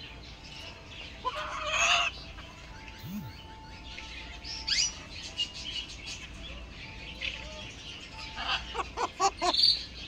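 Several birds calling and chirping: a drawn-out call about a second and a half in, a quick rising chirp near the middle, and a quick run of short calls near the end.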